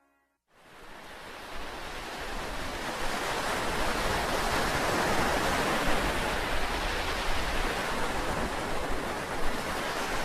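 Rushing noise of ocean surf that fades in about half a second in, grows over the first few seconds and then holds steady.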